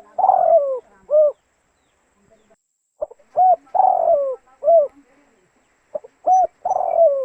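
Spotted dove (tekukur) cooing: three repeated phrases about three seconds apart, each a short coo, a longer falling coo and a short closing coo.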